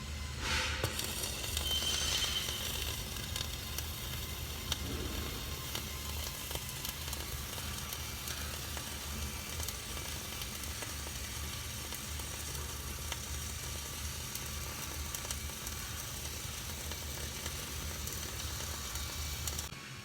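Electric arc welding: the arc's steady crackling sizzle held as a continuous bead, over a low hum, stopping just before the end.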